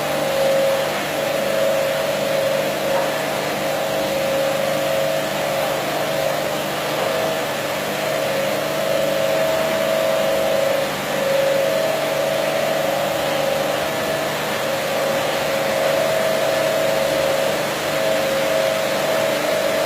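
Carpet washing machine running: a steady motor whine over a loud, even hiss, the whine fading briefly about halfway through and again near the end.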